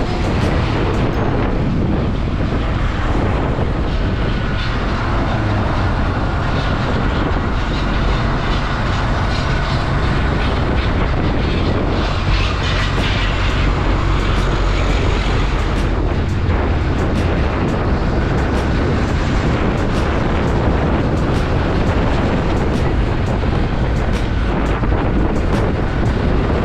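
Motorcycle on the move: steady wind rush on the microphone over the running engine.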